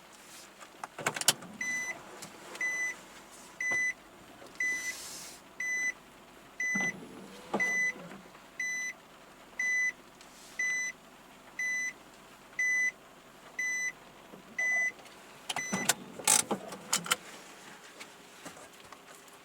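A car's electronic warning chime beeping steadily about once a second, around fourteen times, then stopping. Clicks and clunks of the car's fittings come before the chime starts and again after it stops, the loudest of them just after it ends.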